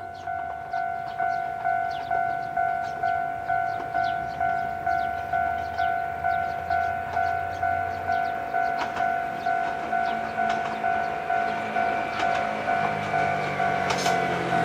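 Japanese level-crossing warning bell dinging steadily, about two strikes a second. Near the end the low hum of an approaching Ichibata Electric Railway 2100-series electric train rises under it.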